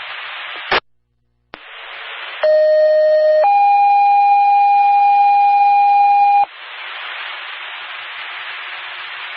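Fire-department two-tone sequential page over a scanner radio: a lower tone held about a second, then straight into a higher tone held about three seconds, the alert that pages out a department to a call. Radio static hiss with squelch clicks and a short dropout runs before it, and hiss follows it.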